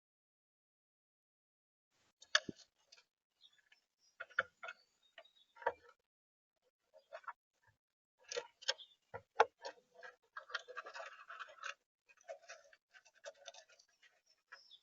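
Irregular sharp taps and clicks of feeder visitors pecking at and handling seed on the feeder. A short scratchy rustle comes about ten seconds in.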